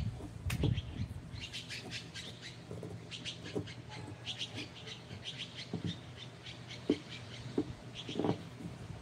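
Small birds chirping in quick runs of short high notes, over a low steady hum, with a few scattered knocks.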